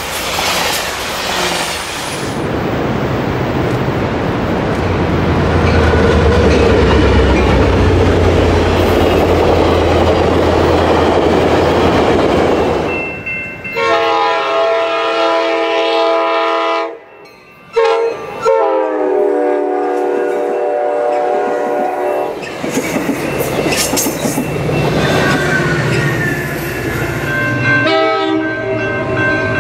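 Coaster commuter train passing close by with a loud, even rumble of wheels and cars, then a diesel locomotive's air horn sounding two long chords about halfway through. Near the end the horn chord sounds again over train noise.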